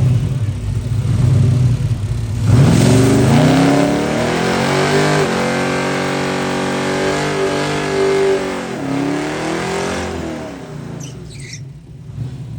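A drag car's engine accelerating hard on a pass. After a low rumble, its pitch climbs steeply about two and a half seconds in, holds high for several seconds, then falls away near the end.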